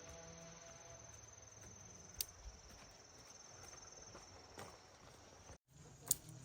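Crickets trilling steadily at a high pitch, faint, with a few sharp clicks, two of them louder, and a brief dropout near the end.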